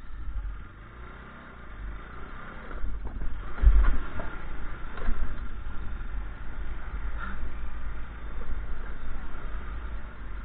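A motor vehicle running on a rough road, a steady low rumble with a loud jolt about four seconds in and a few lighter knocks.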